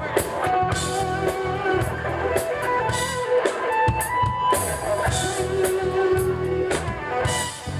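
Live band playing disco-funk music, with guitar and a drum kit keeping a steady beat.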